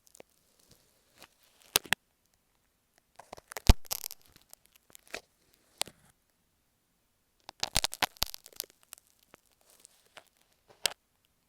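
Dressmaker's pins scratching and tapping on an earphone microphone, very close: scattered sharp clicks and short crackly scrapes in a few clusters with quiet gaps between.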